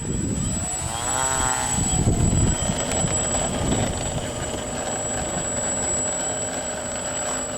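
Radio-controlled model airplane's motor and propeller running, rising and falling in pitch about a second in, then settling to a steady note with a high whine.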